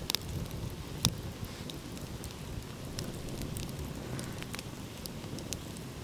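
Wood fire crackling, with scattered pops and snaps, the loudest about a second in, over a low steady rumble of ocean waves.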